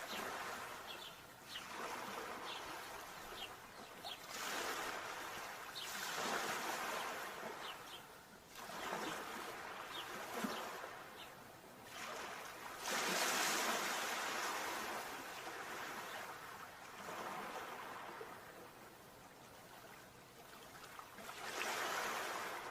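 Sea waves surging and washing back in repeated swells every few seconds, the loudest about 13 s in.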